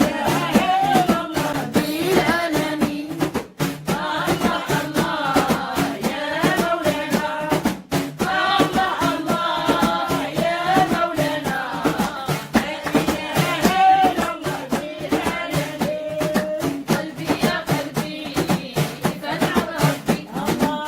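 Voices singing Islamic dhikr chants over a steady beat of drum strikes, with brief breaks about 3.5 and 8 seconds in.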